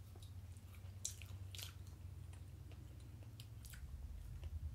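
Faint chewing of sugar-coated Peeps marshmallow chicks: soft, scattered mouth clicks over a steady low hum.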